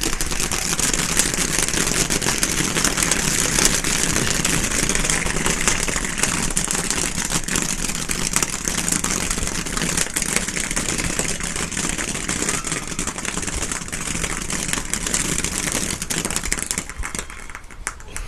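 A spark-spraying firework burning with a loud, steady hiss and fine crackle; it starts suddenly and dies away shortly before the end.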